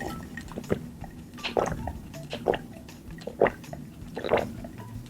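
Close-miked chewing of a mouthful of food, wet and squishy, with a soft chew about once a second.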